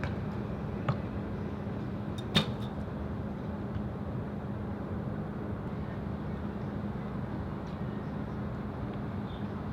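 Steady wind noise on the microphone with a constant low hum under it. Two sharp knocks come about a second and a half apart, the second much louder with a brief ring.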